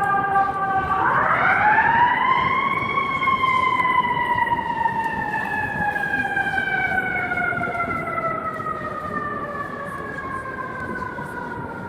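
FDNY Seagrave pumper fire engine's siren: a falling wail that winds up quickly about a second in, then slowly winds down again, growing fainter.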